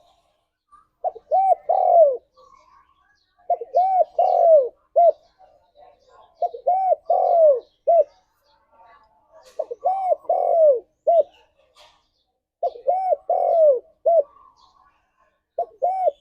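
Spotted dove (tekukur) cooing: a phrase of short hoots and one longer, falling coo, repeated about every three seconds, six times.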